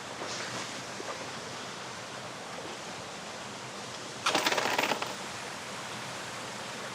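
Steady outdoor background hiss, with a brief loud crackle of rapid clicks about four seconds in, lasting under a second.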